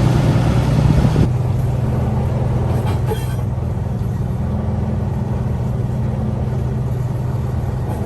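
Diesel engine of a small Planet shunting locomotive running steadily. Its noise drops about a second in as it is throttled back toward idle.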